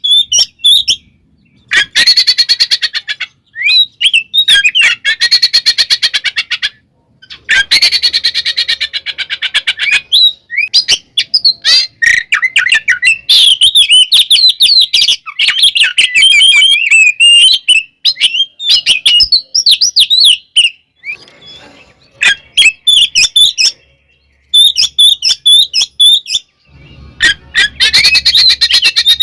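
Oriental magpie-robin singing a loud, combative song. Bursts of very rapid, harsh chattering alternate with warbled, whistled phrases that glide up and down, separated by short pauses.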